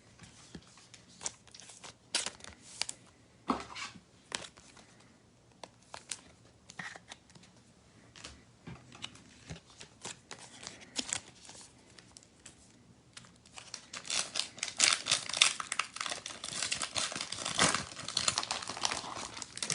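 Trading cards being handled, with scattered light clicks and rustles, then a trading card pack's wrapper being torn open and crinkled for several seconds near the end.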